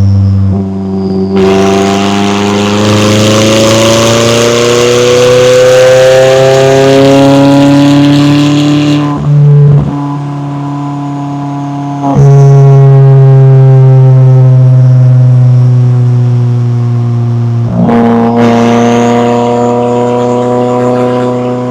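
McLaren 570S's twin-turbo V8 pulling under load, its pitch climbing slowly over several seconds, then dropping at gear changes about two fifths and halfway through and again near the end.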